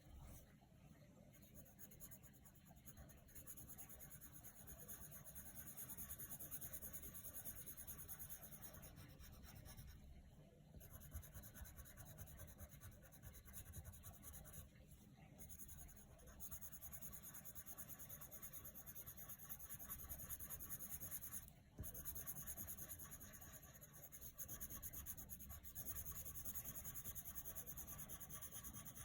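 Coloured pencil rubbing on paper in quick back-and-forth strokes while colouring in, soft and steady, with a few brief pauses.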